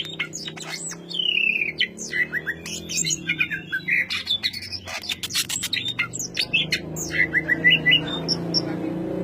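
Cucak ijo (green leafbird) singing a dense, rapid song of whistled glides, chirps and quick clicking notes, starting suddenly and running on without pause: the loud, tight-packed 'ngentrok' delivery prized by bird keepers.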